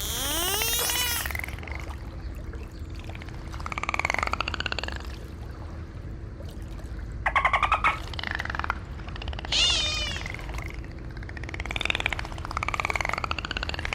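Dolphins calling: a string of high whistles that glide up and down, with a buzzy call of rapid pulses about halfway through.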